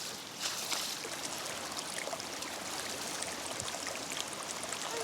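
Steady rush of flowing water, like a stream running over rocks, with a few faint ticks.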